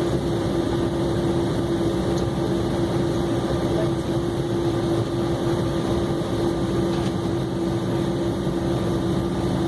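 Steady cabin noise inside an Embraer E190 airliner on the ground, its turbofan engines at idle before the takeoff run, with a constant hum over an even rush of air.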